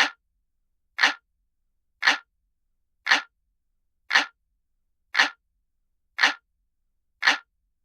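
Looped clock ticking sound: single sharp ticks about once a second, eight in a row, with silence between them.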